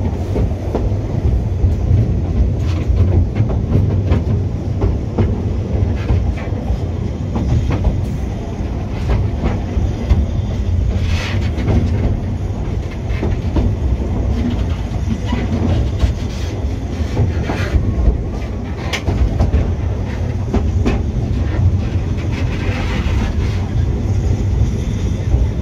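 Narrow-gauge Ffestiniog Railway train heard from aboard its carriage as it runs: a steady low rumble with the wheels clicking over the rail joints.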